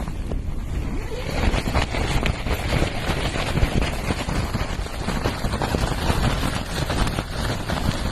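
Blizzard wind buffeting the microphone: a heavy low rumble, joined about a second in by a louder, gusting hiss that stays up.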